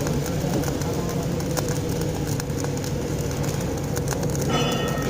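CO2 (MIG/MAG) welding arc running steadily, a crackling hiss with irregular sharp clicks over a low machine hum. A short high tone joins near the end.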